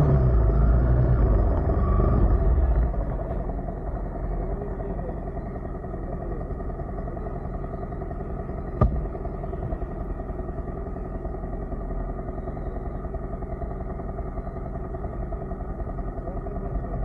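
Motorcycle engine running at a steady, even pitch, as at idle, after a louder low rumble that dies down about three seconds in. A single sharp click about nine seconds in.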